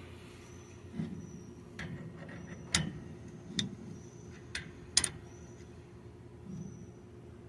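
Sharp metallic clicks at irregular intervals, the two loudest near the middle. They come as a wrench turns the forcing screw of a puller drawing the pinion yoke off a truck's rear differential.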